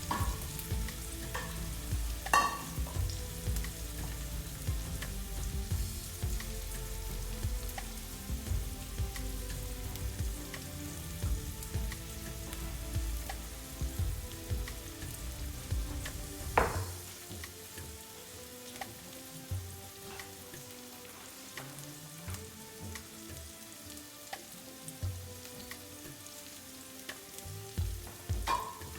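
Food frying and sizzling in a pan, with a utensil stirring it and two sharp clanks, one about two seconds in and one a little past halfway.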